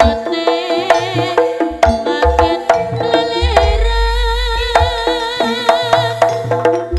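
Gending jaranan, East Javanese horse-dance music played live. Hand-drum strokes and struck metal pitched notes carry a steady rhythm under a wavering melody line, with deep low booms.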